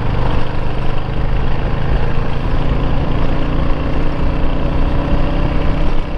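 Yamaha Drag Star cruiser's V-twin engine running steadily under way, with wind and road noise over it.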